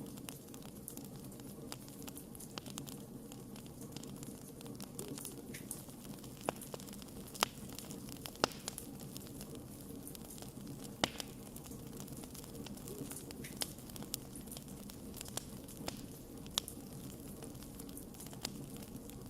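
Wood fire crackling: a steady low rush of burning with scattered sharp pops and snaps, a few louder pops in the middle.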